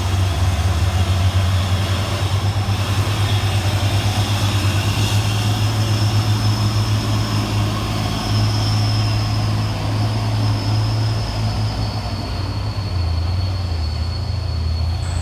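Heavy diesel tractor-trailer engine labouring up a steep climb: a deep, steady throbbing drone with a thin high whine above it.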